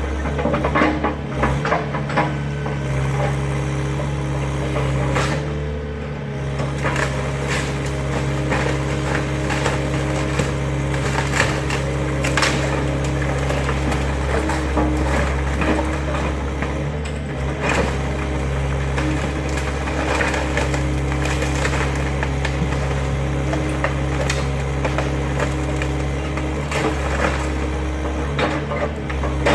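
Excavator engine running steadily under load while the garage's wooden structure is crushed and splintered, with repeated cracks and crunches of breaking timber throughout.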